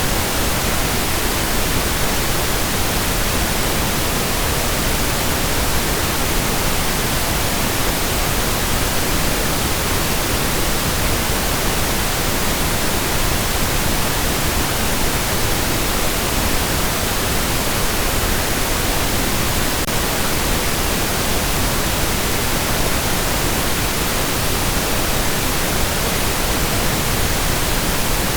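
Steady synthetic pink noise: an even, unchanging hiss that does not vary.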